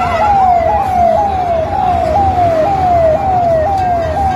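Emergency vehicle siren sounding in a repeating pattern, each tone falling sharply and restarting about twice a second, over the low rumble of traffic.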